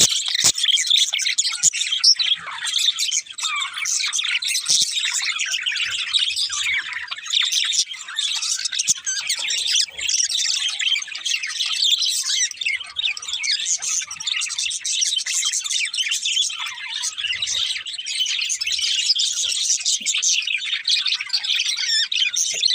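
Several budgerigars chirping and chattering together without a break, a dense flock chorus of quick high chirps.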